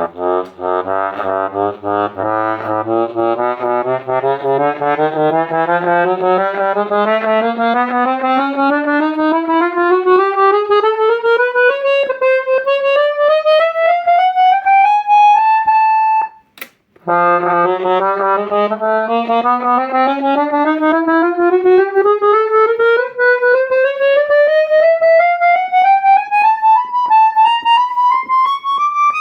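Hohner Morino IV S accordion played note by note up the scale in small steps, a reedy multi-voiced sound climbing from low to high. About halfway through it stops briefly with a click, then a second run starts lower and climbs again.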